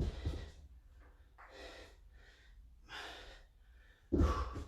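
A man breathing hard under exertion while holding a plank, in breathy puffs about every second and a half, with a louder puff near the end.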